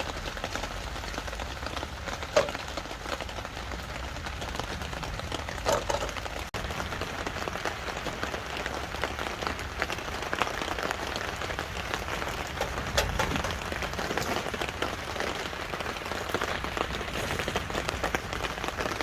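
Steady rain falling, with a few sharp knocks, the loudest about two seconds in.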